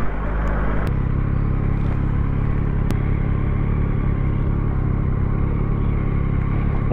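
Yamaha MT-09 SP's three-cylinder engine running steadily under way, its note changing about a second in.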